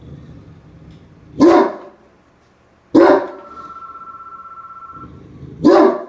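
Pet dog barking angrily, three loud single barks about a second and a half apart.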